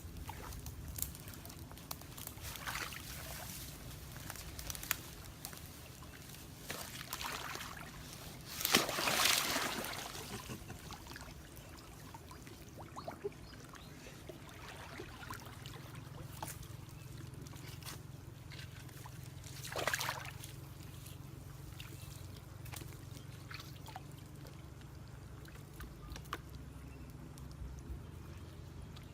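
Water sloshing and trickling, with scattered small splashes and two louder splashes, one about nine seconds in and one around twenty seconds in.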